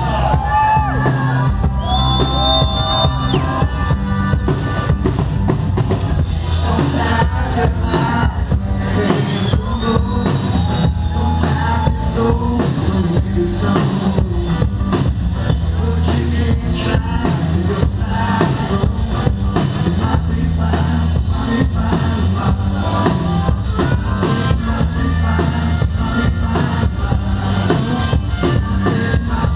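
Live band playing an instrumental passage: a drum kit and bass keep a steady groove under a lead line that bends and holds notes.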